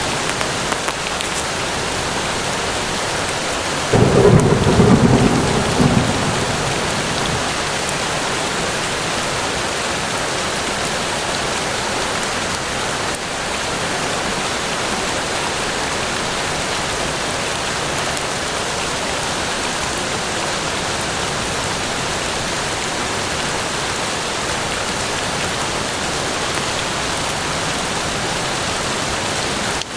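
Steady rain falling in a forest, an even hiss of drops. About four seconds in, a short low rumble rises suddenly over it and fades within about two seconds.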